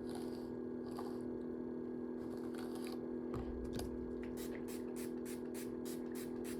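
Quick run of short swishing strokes on hair, about five a second, starting about halfway through, over a steady low hum.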